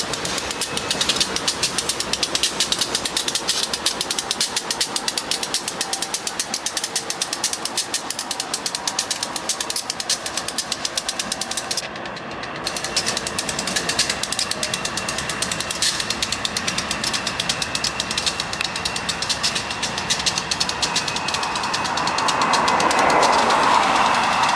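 Freight train rolling past at close range: a rapid, steady clatter of wheels on the rails. It breaks off briefly about twelve seconds in and swells louder near the end.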